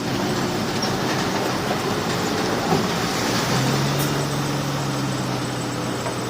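Crawler bulldozer's diesel engine running under load with its steel tracks clanking; a low steady engine hum grows stronger about three and a half seconds in.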